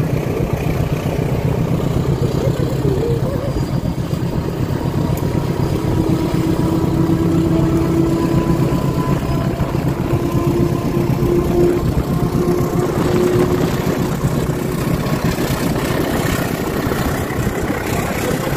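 A motorcycle riding alongside a moving train: steady engine and wind noise, with a KAI CC206 diesel-electric locomotive and its carriages running close by. A steady hum from the locomotive is clearest in the middle as it draws level.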